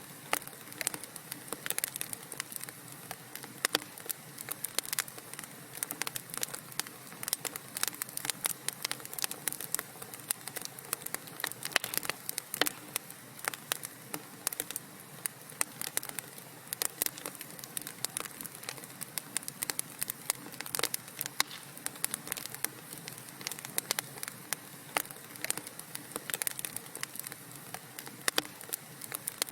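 Wood fire crackling steadily, with dense irregular pops and snaps over a soft hiss.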